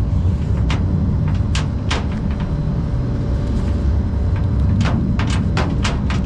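Truck engine idling with a steady low rumble, overlaid by sharp metallic clanks of tie-down chains and hooks being handled: a few in the first two seconds, then a quick cluster near the end.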